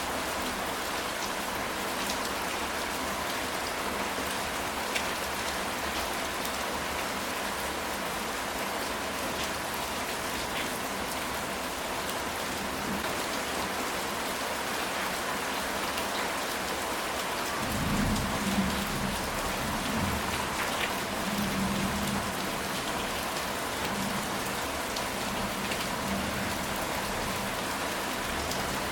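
Steady rain falling on a ceramic tile roof, with scattered sharp drop ticks. Thunder rumbles low about two-thirds of the way through for a few seconds.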